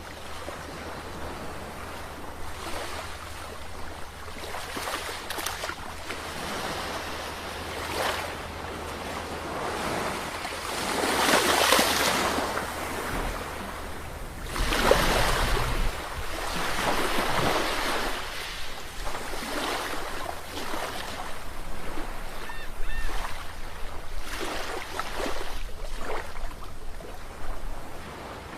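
Sea waves breaking and washing on the shore in repeated surges, the biggest ones about a third and halfway through, over a steady low rumble.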